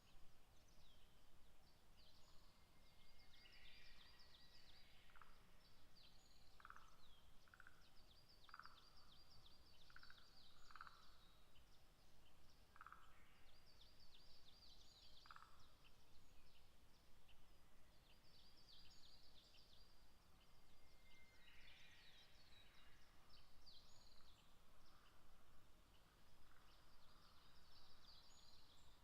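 Faint dusk chorus of distant wild birds: repeated high chirping song phrases, with about eight short lower call notes in the first half.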